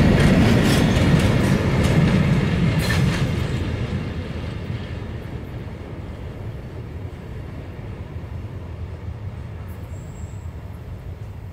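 Coal freight train wagons rolling past, wheels clicking over the rail joints with a low rumble. After about four seconds the clicking stops and the rumble fades as the train moves away.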